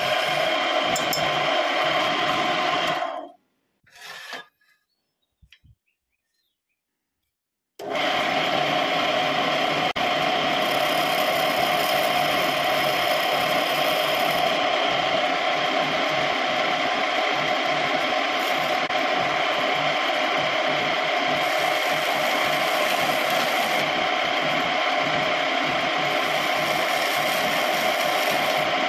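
Homemade wood lathe running steadily while wood is cut on it. The sound fades out about 3 seconds in, drops to near silence for several seconds, then comes back abruptly and runs on evenly.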